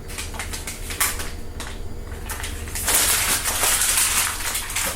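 Handling noises: a run of light clicks and knocks, then a rough scraping rustle lasting about two seconds, over a low steady hum.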